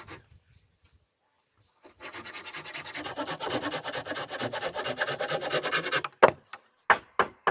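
A hand tool scraping back and forth on wood in fast, even strokes, about ten a second, for around four seconds, then about four sharp knocks of wood near the end.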